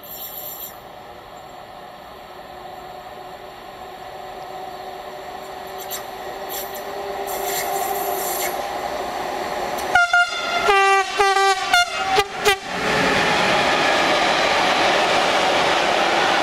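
Siemens Vectron electric locomotive hauling a container freight train draws near with a slowly rising rolling noise, then about ten seconds in sounds its horn in a quick run of short blasts, a greeting to the trackside watcher. The container wagons then pass close by in a loud, steady rush of wheels on rail.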